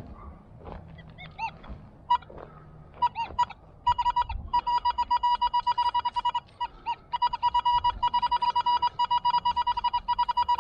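Metal detector beeping over a buried target: a few scattered chirps, then a steady run of rapid, even, mid-pitched beeps from about four seconds in, with a short break near seven seconds. It is judged a good signal.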